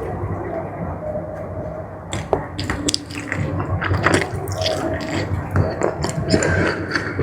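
Close-miked chewing of jumbo squid in spicy sauce: wet smacking and squishing with many small mouth clicks, busier from about two seconds in.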